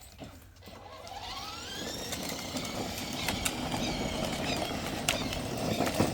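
Electric motors of a 12V kids' ride-on truck whining and rising in pitch as it picks up speed about a second in, then running steadily with a few clicks.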